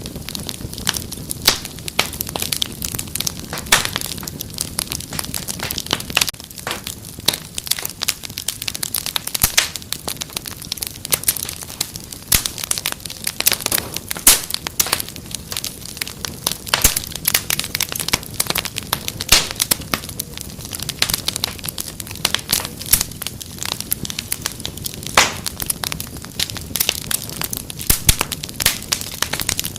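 Wood fire crackling in a fireplace: a dense, irregular run of sharp pops and snaps over a low steady rumble of burning.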